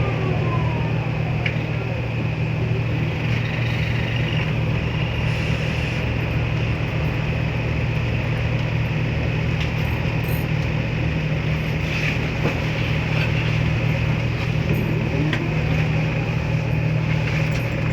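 Scania L94UA bus running with a steady deep hum, with a faint whine that falls away at the start and rises again near the end.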